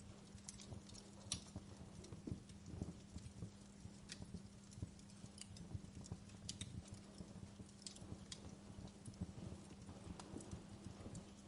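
Wood fire crackling, with irregular sharp pops and snaps over a soft steady hiss and low hum.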